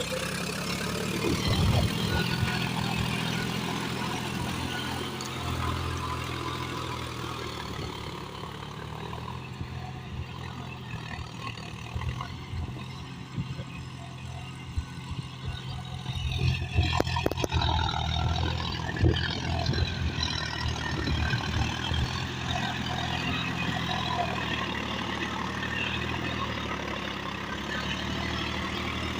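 Tractor's diesel engine running steadily under load in low gear at about 1600 RPM, driving a rotavator through soil. A few sharp knocks stand out about halfway through.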